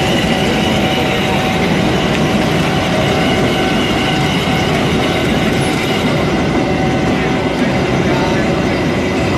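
Passenger train coaches rolling past at close range: a steady, loud rumble of steel wheels running on the rails.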